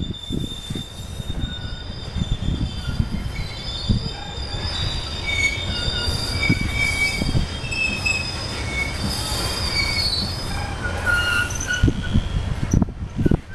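Coal train's aluminum gondola cars rolling past close by: a steady low rumble with repeated knocks from the wheels, and high-pitched wheel squeal that comes and goes over it, strongest through the middle.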